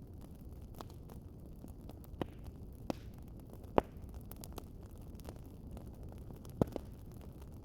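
Fireplace crackling: a steady low rumble of burning with scattered sharp pops. The loudest pop comes about four seconds in, and a quick double pop comes near the end.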